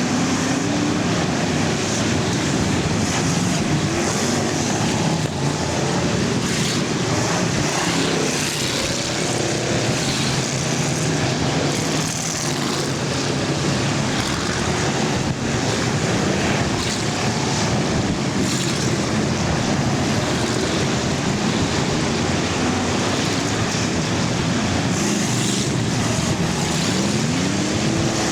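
Many full-size car engines running hard at once in an enduro race, their pitches rising and falling as cars rev and pass. One engine climbs in pitch near the end.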